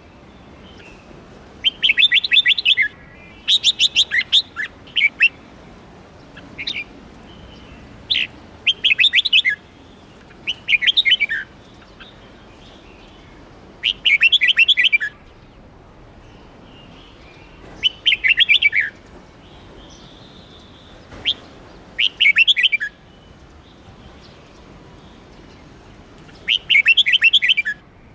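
Red-whiskered bulbul singing: short, bright, warbled phrases of rapid notes, each about a second long, repeated every few seconds.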